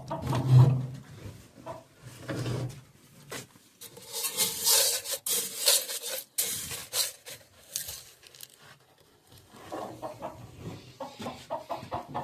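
Chickens clucking, with two dull thumps near the start and a few seconds of rustling and scraping in the middle.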